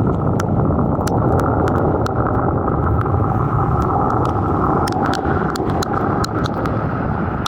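Steady wind rumble buffeting the microphone, with scattered sharp ticks throughout.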